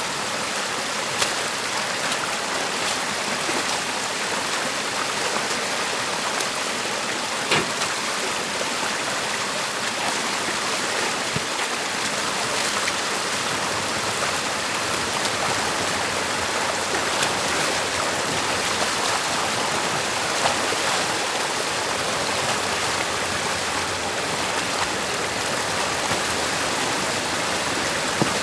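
Stream water rushing steadily through a beaver dam being cleared by hand. A few brief knocks or splashes cut through it, the loudest about seven and a half seconds in.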